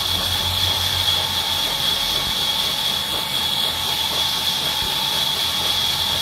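Wood-cutting saw machine running steadily, a continuous high-pitched whine over a hiss.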